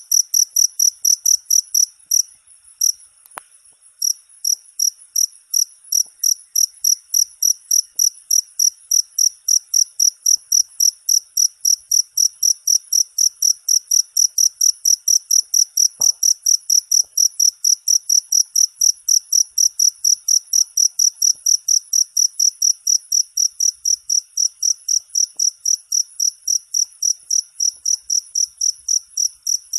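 Cricket chirping in a steady, even rhythm of high-pitched chirps, about three a second, with a brief pause about three seconds in.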